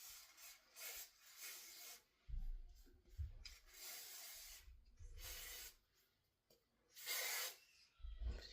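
Aerosol can of Got2b Glued hair spray hissing in several short bursts, with rubbing and handling noise between them.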